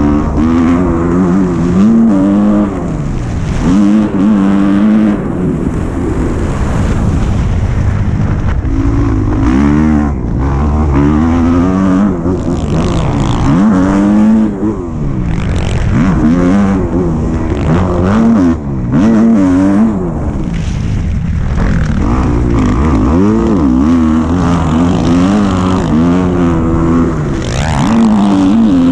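Dirt bike engine running hard, its pitch climbing and dropping over and over as the throttle is opened and closed through the ride.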